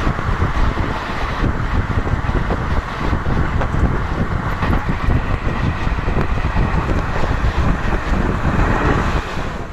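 Passenger train running at speed: a steady rush of wind over the microphone mixed with the rumble of the coach's wheels on the rails.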